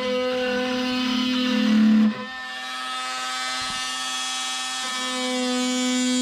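Small electric motor running with a steady whine. Its pitch drops about two seconds in and rises again near the end.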